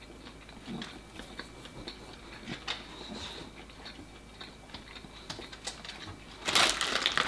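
Quiet chewing of turkey sausage snack sticks, with small scattered mouth clicks. Near the end, a plastic snack bag is handled with a loud crinkling rustle.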